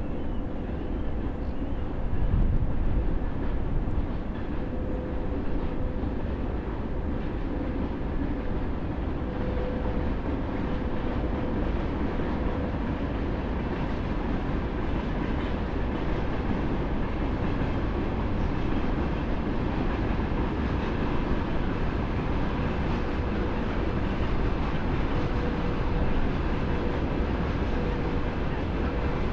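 A train passing by the railway line: a continuous rumble with a faint steady whine, holding even for the whole stretch, as a long train goes by.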